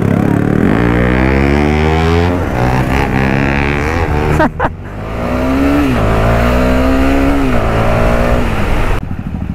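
KTM Duke 250 single-cylinder engine accelerating: the note climbs, breaks off briefly about four and a half seconds in as at a gear change, climbs again and holds steady, then falls away near the end.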